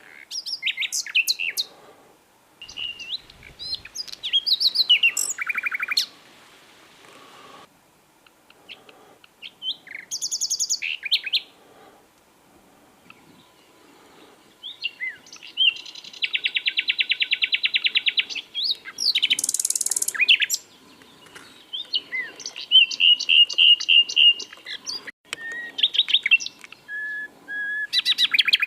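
Common nightingale singing: varied phrases of whistles, chirps and fast trills, including long runs of rapid repeated notes, separated by pauses of a second or two.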